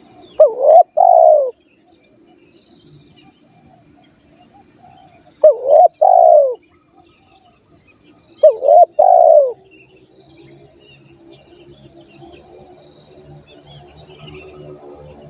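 Spotted dove cooing: three phrases of two or three arching notes, each about a second long and a few seconds apart, over a steady high insect drone.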